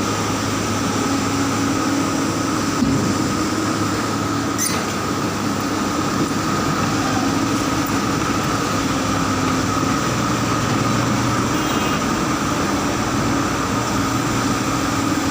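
Dump truck running steadily: a constant engine drone with a steady whine above it.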